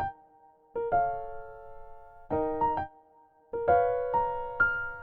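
Light, cute background music on electric piano: short chords struck in phrases, each fading, with brief near-silent pauses between them.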